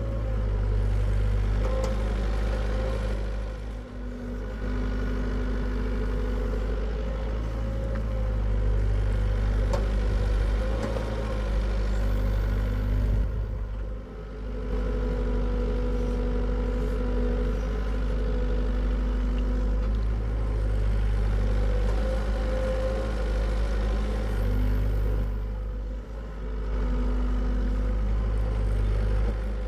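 Hitachi EX75UR excavator's diesel engine running steadily while it digs. The sound eases off briefly about every ten to twelve seconds.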